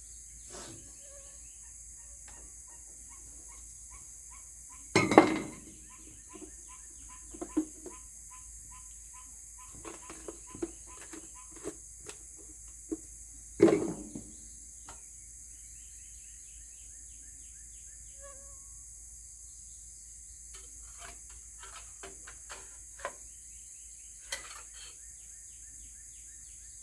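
Scattered clinks and knocks of hands at work, with two louder thumps, one about five seconds in and one near the middle. Under them runs a steady, high-pitched chirring of insects.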